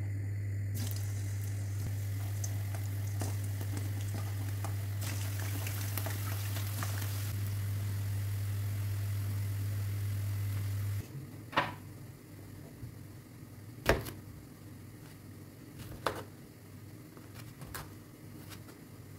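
Food sizzling over a steady low electrical hum from a kitchen appliance; the hum and sizzle cut off suddenly about eleven seconds in, followed by a few sharp clicks and knocks.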